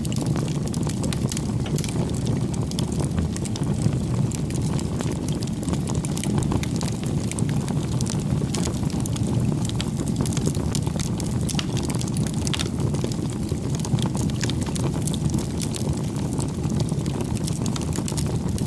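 Wood fire burning, a steady low rumble with frequent small crackles and pops scattered throughout.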